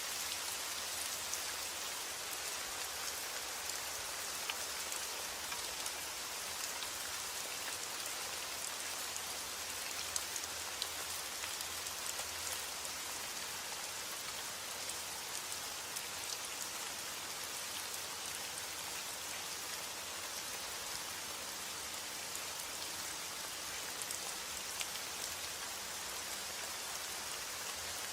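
Heavy rain falling steadily on a roof, an even hiss with individual drops ticking sharply throughout.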